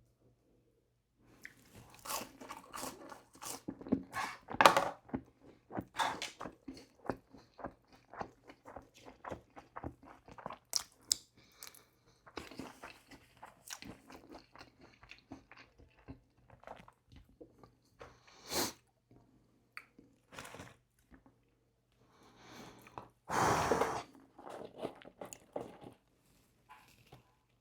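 Close-miked eating of McDonald's food: rapid crunching bites and wet chewing. About 23 seconds in there is a louder noisy burst lasting under a second.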